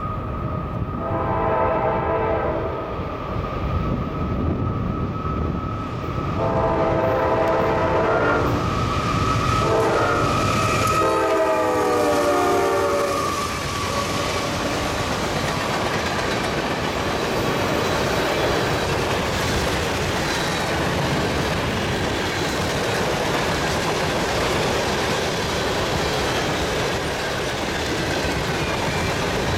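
Two CSX GE CW44AH diesel locomotives pulling a freight train past with loud engines, the horn sounding three times, the last blast the longest and falling in pitch as the lead unit goes by. Then the freight cars, tank cars among them, roll past in a steady roar.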